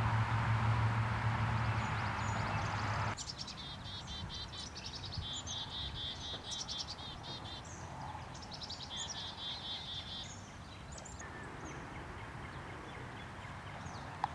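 A steady low hum that cuts off abruptly about three seconds in. A songbird then sings rapid runs of repeated high, chirping notes for about seven seconds before it fades out.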